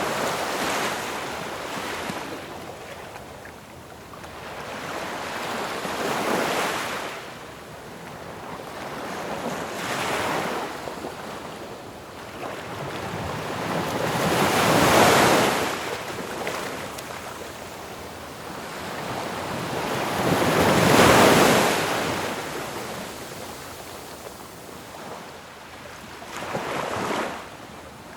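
Ocean waves breaking on a shore, a steady wash of surf that swells as each wave crashes, about every four to six seconds, the biggest two about midway and later on.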